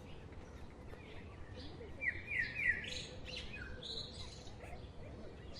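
Small birds chirping: a quick run of three short falling chirps about two seconds in, then a few more higher calls, over a steady low background noise.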